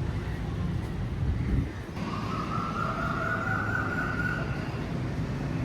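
Street traffic rumble, with a long high tone that sounds from about two seconds in for about two and a half seconds.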